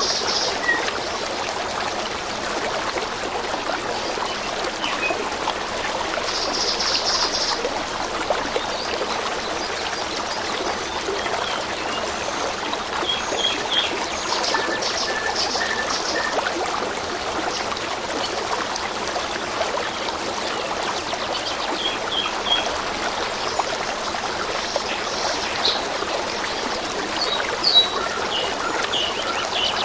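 A stream trickling and splashing steadily, with small birds giving short high chirps and trills here and there.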